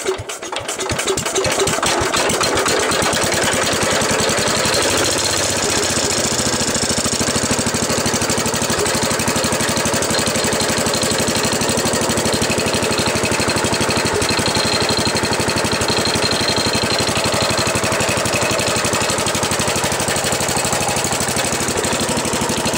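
Gravely Commercial 12 garden tractor's 12-horsepower engine catching, then running steadily with a rapid, even firing beat. It has been sitting a couple of days and its carburetor still needs adjusting.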